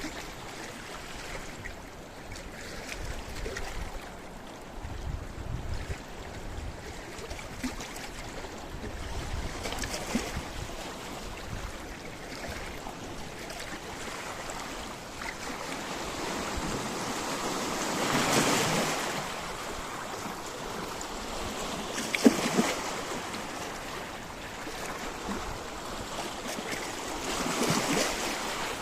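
Sea waves washing against a rocky shore: a steady wash of surf that swells in surges, the largest about two-thirds of the way through and another near the end, with a sharp splash just after the big one.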